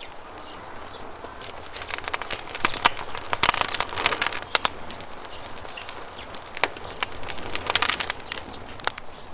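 Wood campfire crackling and popping, with two spells of dense crackling, the first lasting about three seconds and the second near the end, over a steady rush of running river water.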